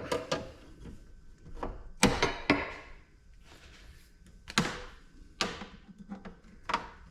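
A series of irregular knocks and clunks, about seven in all, some with a short rattle after them: a small countertop ice maker being handled and shifted about before it is taken apart.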